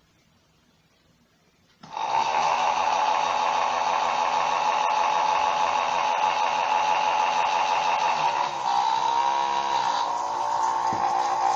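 Small electric motor of a mini blender switched on about two seconds in and running with a steady high whine. Partway through, its pitch sags for a moment and then climbs back.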